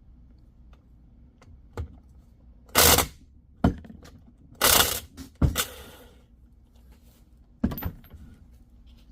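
Metal engine parts being handled during a teardown of a Polaris 850 engine: a series of knocks and clanks with two short scraping rasps, the loudest around the middle.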